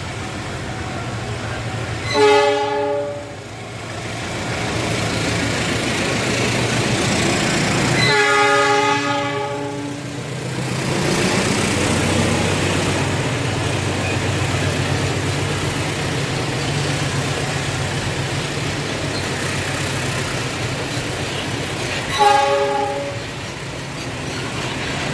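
Horn of a CC 206 diesel-electric locomotive sounding three times: a short blast about two seconds in, a longer one of about two seconds around eight seconds in, and another short blast near the end, over the steady noise of the container train running.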